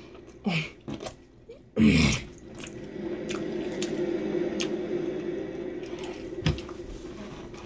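A person biting and chewing pizza close to the microphone: wet, squishy mouth sounds with scattered sharp clicks. About two seconds in comes a brief loud sound that falls in pitch, and a steady low hum runs underneath from then on.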